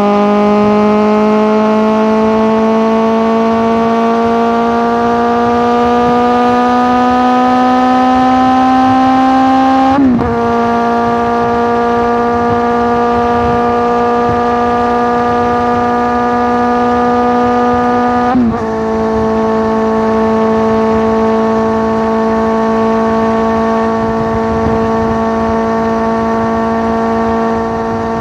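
Suzuki GSX650F inline-four engine through a Tiger aftermarket exhaust, running at high steady revs. Its pitch climbs slowly, dips briefly about ten seconds in and again a little after eighteen seconds, then holds steady.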